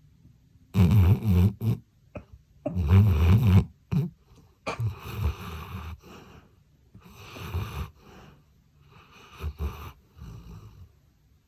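A sleeping Labrador retriever snoring: two loud snores about two seconds apart, then a run of quieter, uneven snores.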